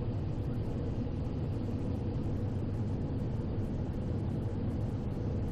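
Steady cockpit noise of a Cessna Citation XL business jet in flight on approach, with gear down and landing flaps set: a constant low rumble of airflow and twin-turbofan engine noise.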